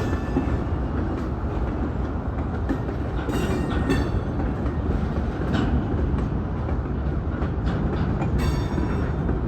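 Freight train rolling past with a steady, continuous rumble of wheels on rail, broken a few times by brief sharp noises.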